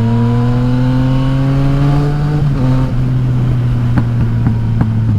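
Yamaha XSR900's three-cylinder engine through a loud Akrapovic exhaust with the dB killer removed, pulling under load. Its pitch rises for about two seconds, drops at an upshift, then runs steady, with a few short pops near the end.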